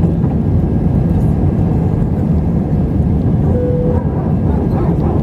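Cabin noise of an Airbus A320-family airliner in flight: a steady rumble of engines and airflow. A short single tone sounds briefly about three and a half seconds in.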